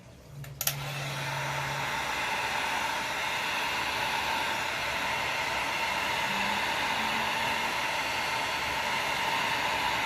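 Heat gun switched on with a click about half a second in, then blowing steadily with a loud rushing hiss.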